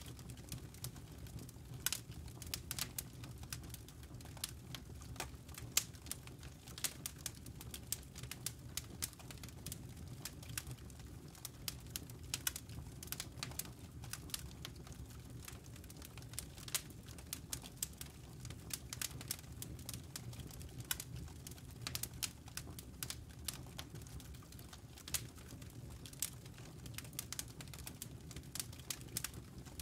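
Burning wood logs crackling in a fireplace: frequent irregular sharp pops and snaps over a steady low rumble of the flames.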